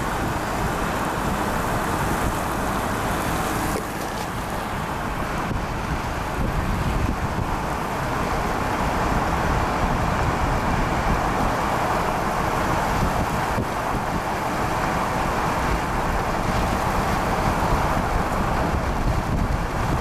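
Steady road and wind noise of a vehicle driving, a little louder from about six seconds in.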